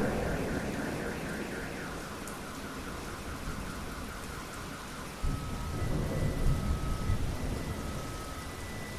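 Rain falling steadily with thunder: a rumble dies away at the start, and a new roll of thunder rises suddenly about five seconds in. Faint, repeating high tones sound over the rain.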